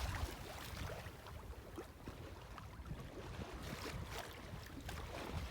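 Light wind buffeting the microphone and water washing along the hull of an engineless sailboat moving slowly under sail.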